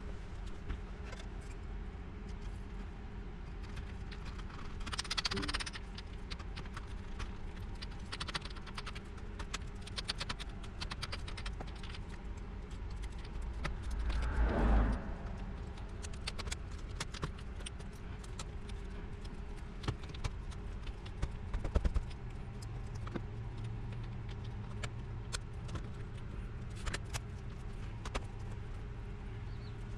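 Light, scattered clicks and clinks of small hard parts being handled on a workbench, over a steady low hum, with a brief louder rustle about five seconds in and a louder scrape about fourteen seconds in.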